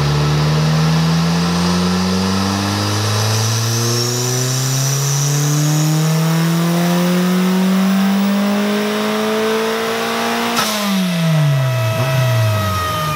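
Garrett-turbocharged Mazda Miata four-cylinder engine making a full-throttle pull on a chassis dyno, revs climbing steadily for about ten seconds. Near the end there is a sudden rush of noise as the throttle closes, and the revs fall away quickly.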